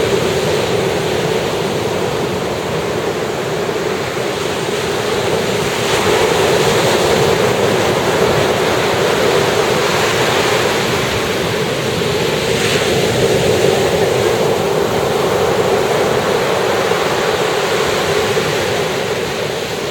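Ocean surf breaking and washing up the beach: a continuous rushing wash that swells louder about six seconds in and eases off near the end.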